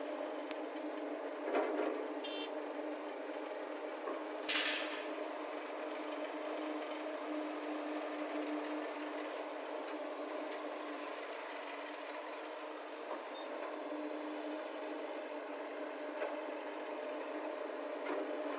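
Heavy diesel machinery (excavators and a tipper lorry) running steadily, with a sharp knock about four and a half seconds in and a softer one before it.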